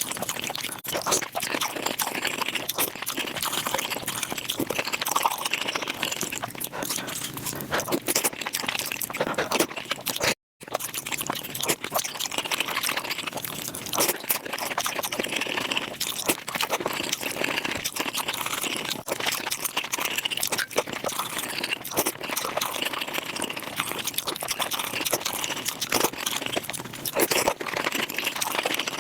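Close-miked mukbang eating sounds sped up five times: a dense, rapid stream of chewing, crunching and wet mouth clicks from someone eating, with a brief dropout about ten seconds in.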